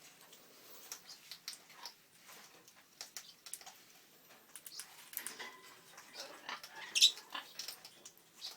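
African grey parrot making soft clicks and small squeaks, with one sharper high squeak about seven seconds in.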